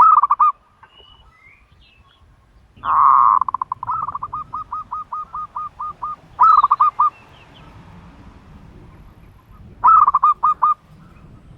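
A turtle dove calling in four loud bouts of quick repeated notes. The longest bout, about three seconds in, opens with a longer note and runs on for over two seconds as a steady string of about a dozen short notes. The others are brief bursts at the start, around six and a half seconds and near ten seconds.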